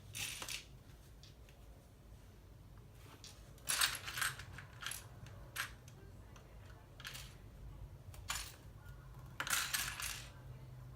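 Loose plastic LEGO pieces clattering and clicking in irregular bursts as hands rummage through them.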